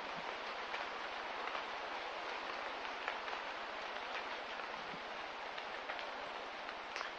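Steady rain ambience: an even hiss with scattered light drip ticks.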